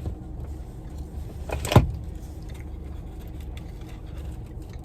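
Steady low rumble of a car, with one sharp knock or click a little under two seconds in.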